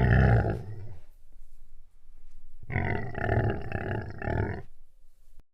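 Lion calling: a loud, deep call at the start, then a second, longer call of about two seconds a little under three seconds in.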